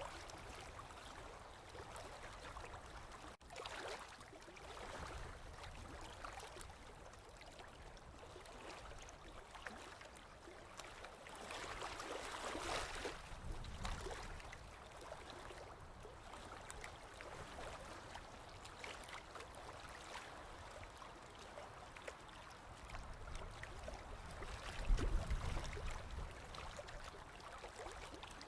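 Sea waves washing in a continuous hiss that swells and falls, with one swell about twelve seconds in and a louder surge with a deep rumble a few seconds before the end. There is a brief dropout a few seconds in.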